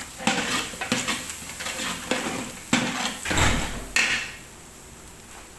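Metal spoon clinking and scraping against a cooking pot, a run of sharp knocks with a heavier thud about three and a half seconds in and a last sharp clack at about four seconds.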